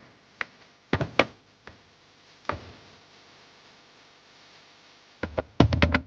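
A series of sharp knocks and thumps: a handful of single knocks in the first few seconds, then a quick cluster of them near the end.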